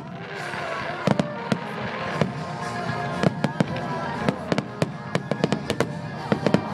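Fireworks going off: a quick series of sharp bangs and crackles that starts about a second in and gets thicker after about three seconds.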